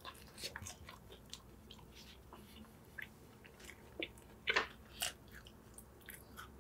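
A person chewing a grilled, toasted-crust fried chicken sandwich close to a clip-on microphone: small scattered crunches of the crisp bread, with a couple of louder crunches about four and a half seconds in.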